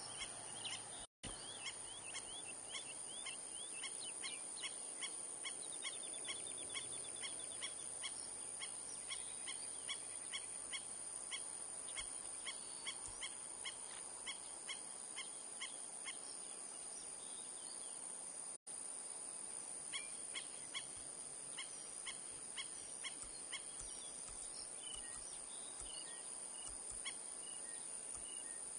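Faint bird song and calls: quick runs of short high notes and scattered whistled phrases over steady outdoor background noise and a thin, steady high tone. The sound cuts out briefly twice.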